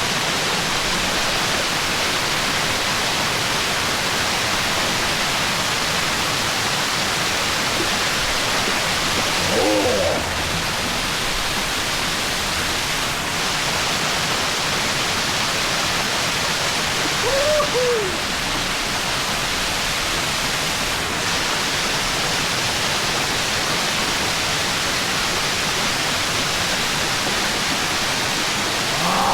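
Loud, steady rush of a rainforest river's water flowing over rocks, with two brief pitched calls or vocal sounds over it, about ten and seventeen seconds in.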